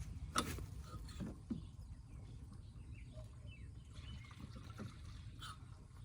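Tractor engine running with a low steady rumble, with a few light knocks and clicks.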